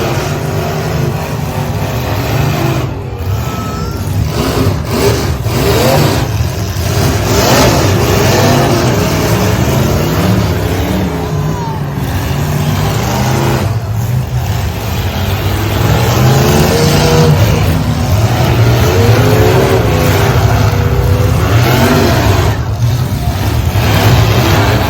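Demolition-derby truck engines running hard and revving, their pitch repeatedly rising and falling over a steady low rumble.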